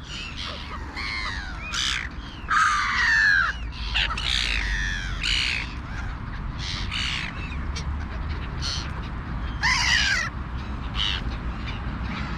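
Crows cawing with black-headed gulls calling among them: a flock at a feeding spot giving many short, harsh, overlapping calls, loudest about three seconds in and again near ten seconds, over a steady low rumble.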